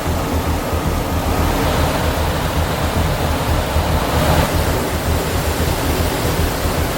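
Steady, loud roar of a C-17 Globemaster III's jet engines and airflow, heavy in the low rumble.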